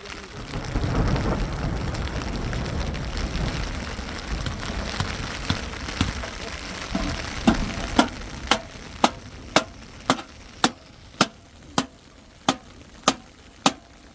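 A steady hiss, then from about halfway, regular sharp chops of a knife on a cutting board, a little under two strokes a second.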